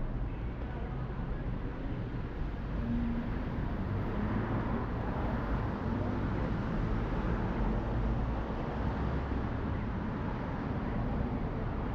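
City street ambience: steady traffic noise from passing cars, with a low rumble.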